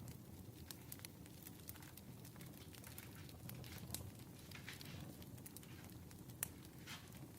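Quiet wood fire crackling: scattered sharp pops and snaps over a steady low rumble, with one stronger pop near the end.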